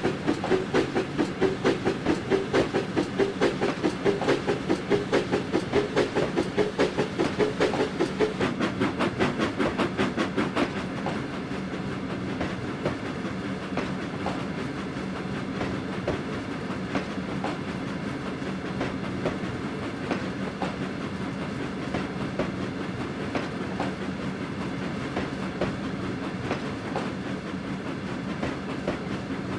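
Steam locomotive Flying Scotsman working a train, its exhaust beats coming quickly and evenly, about four a second. About ten seconds in the beats fade into the steady rumble and clickety-clack of the train rolling over the rails.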